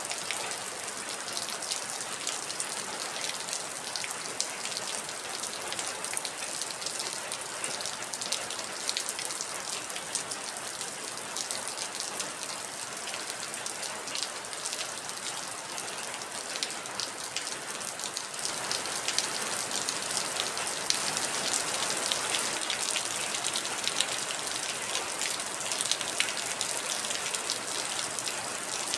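Heavy rain falling steadily, with many small drop impacts pattering on a surface; it gets a little louder about two-thirds of the way through.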